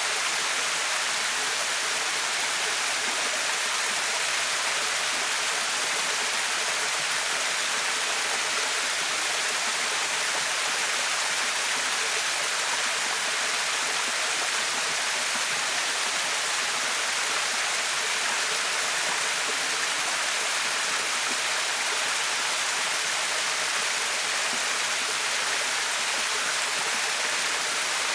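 Small waterfall, about 3 m high, rushing steadily as water pours over it.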